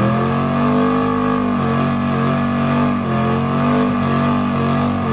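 Car engine held at high revs, its pitch dipping briefly and climbing back a few times.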